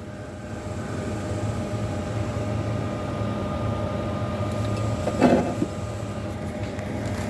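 Vent-A-Hood range hood fan running with a steady hum, with one brief louder sound about five seconds in.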